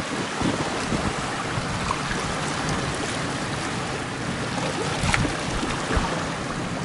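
Strong gusting wind buffeting the microphone over the steady wash of sea surf, with a sharp click about five seconds in.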